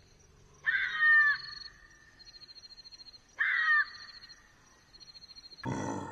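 Two loud animal calls about two and a half seconds apart, each short with falling pitch, over a fast high-pitched pulsing trill. Near the end a louder, rougher call with a deep rumble breaks in suddenly.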